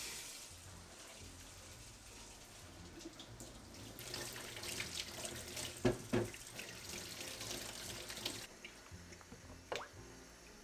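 Tap water running into a sink, heavier for a few seconds in the middle, with two knocks about six seconds in.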